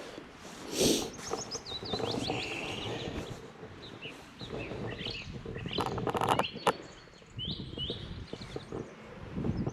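Small birds singing, with runs of short, quick chirping notes repeated through the clip, over a hiker's crunching footsteps. A brief rattling burst about six seconds in.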